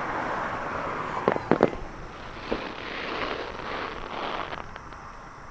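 Aerial fireworks: three sharp bangs of shell bursts close together about a second and a half in, and a lighter one a second later, over a fizzing crackle of burning stars that dies away near the end.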